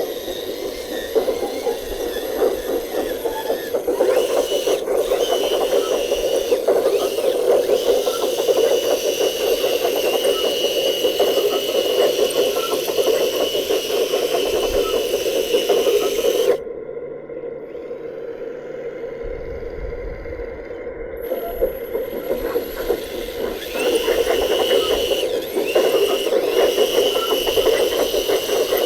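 Radio-controlled construction vehicle working, its small electric motor and gears whining steadily over a grinding, scraping noise. It drops quieter for several seconds past the middle, then picks up again.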